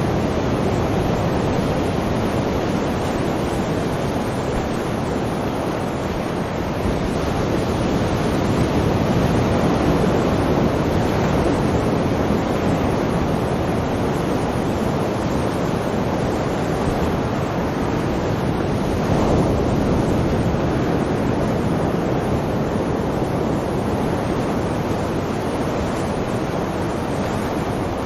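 Sea waves breaking and washing on the shore: a steady surf that swells a little now and then.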